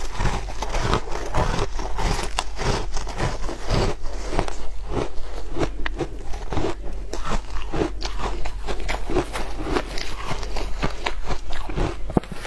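Someone biting and chewing frozen shaved ice: dense, irregular crunching, several crunches a second without pause.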